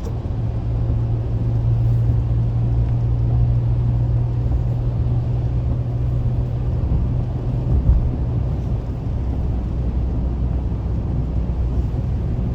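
Car cabin noise while driving on a highway: the steady low drone of the engine and tyres on the road, with a brief low thump about eight seconds in.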